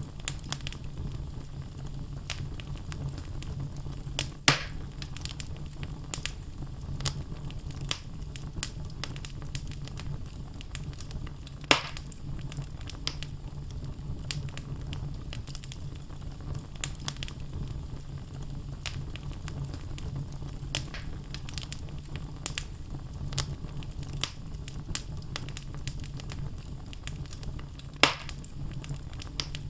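Wood logs burning in a fireplace, crackling constantly over a low steady rumble, with three sharp, louder pops spread through.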